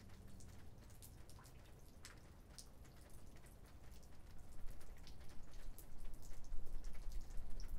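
Light rain: scattered raindrops ticking and dripping, with a low rumble that builds from about halfway through.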